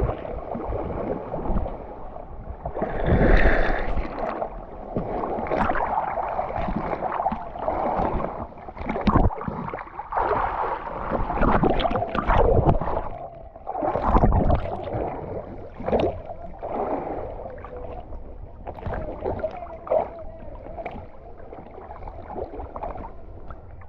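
River water rushing and splashing around a kayak, with irregular louder splashes every few seconds.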